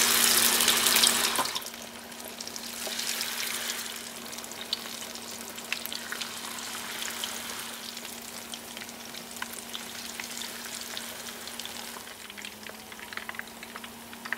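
Batter-coated bananas deep-frying in hot oil: a loud sizzle as the battered piece goes into the oil, dying down after about a second and a half into steady sizzling with small scattered crackles and pops.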